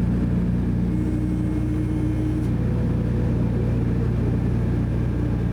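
Douglas DC-3's twin radial piston engines droning steadily at an even pitch, with no change in power.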